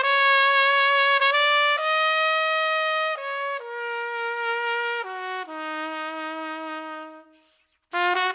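Unaccompanied trumpet playing a slow phrase of long held notes, climbing over the first two seconds, then stepping down to a low note that is held and fades out about seven and a half seconds in. After a short pause a new phrase begins near the end.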